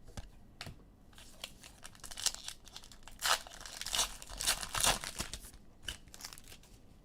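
Crinkling and tearing of a foil trading-card pack wrapper, in irregular rustles that are loudest in the middle.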